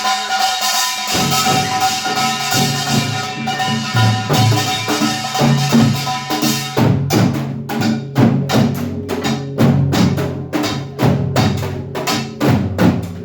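Samulnori percussion ensemble playing: a long ringing gong stroke at the start, with low janggu and buk drum beats joining about a second in. From about seven seconds in the playing turns to fast, even strikes in a steady rhythm.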